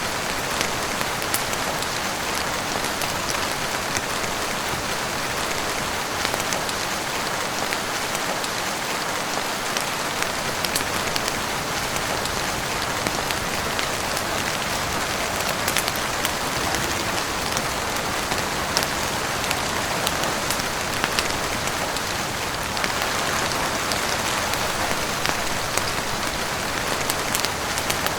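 Steady heavy rain falling on a roof and windows, an even hiss, with scattered sharp crackles from a wood fire in a fireplace.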